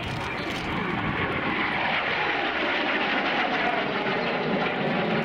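Vintage jet fighter's turbojet engine roaring as it flies by, the noise swelling over the first couple of seconds with a falling whine.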